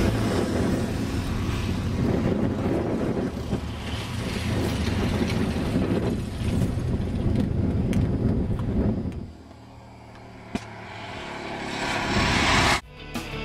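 Engine noise running steadily, dropping away about nine seconds in, with a single click, then swelling again before cutting off abruptly.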